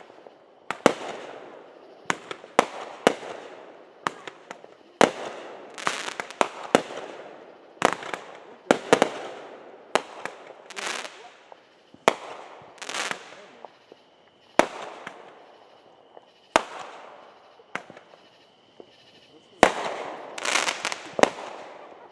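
Backyard fireworks finale: aerial shells bursting in quick succession, sharp bangs one after another every half second to a second, each trailing off in a fading crackling hiss.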